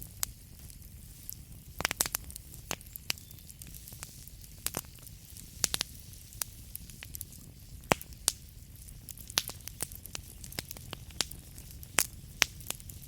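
Burning wood crackling and popping: irregular sharp snaps, several close together about two seconds in and a few louder pops near the end, over a low steady rumble of the fire.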